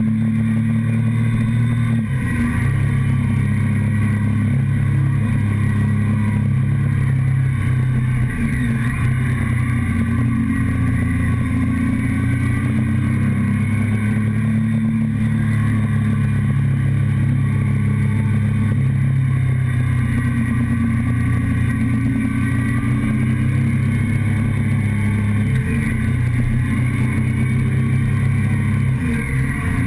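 Motorcycle engine running steadily under way, heard close up from a tank-mounted camera, its pitch dipping and picking up briefly a few times as the rider changes speed.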